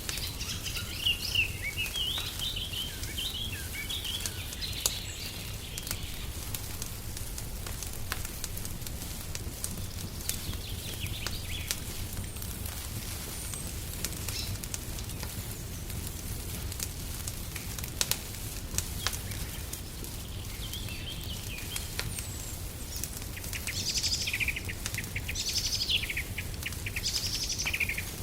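Wood fire crackling with scattered sharp pops over a low steady rumble. Songbirds chirp over it, at the start and again in a flurry of calls near the end.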